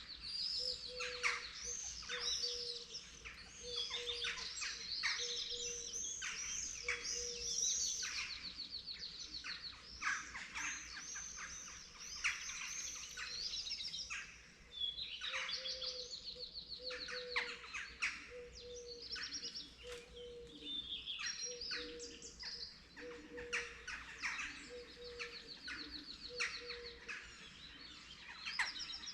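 Dawn chorus of several songbirds: overlapping chirps, whistles and fast trills, with a low hooting note repeated about once a second through much of it.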